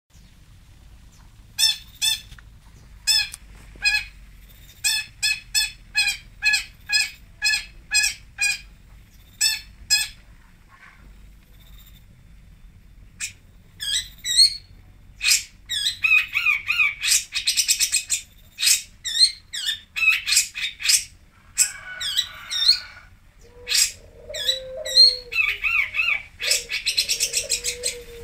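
Long-tailed shrike (cendet) singing. It opens with a series of short, harsh notes repeated about twice a second. After a brief pause it breaks into a faster, varied run of chattering and trilled notes, with lower warbling notes joining near the end.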